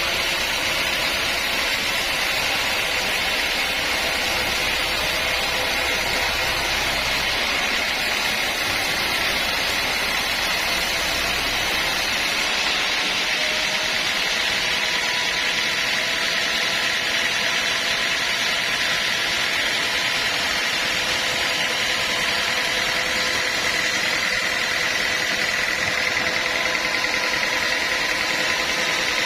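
Sawmill machinery running steadily, a continuous whine over a hiss. A low rumble underneath drops away about twelve seconds in.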